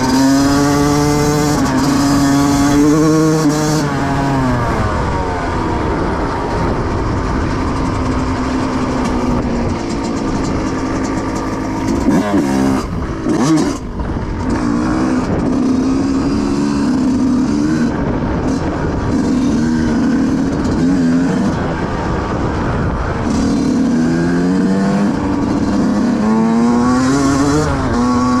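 Yamaha YZ125 two-stroke dirt bike engine riding hard, its pitch repeatedly climbing and dropping as it revs up and shifts or backs off. There is a brief rough, noisy patch about halfway through.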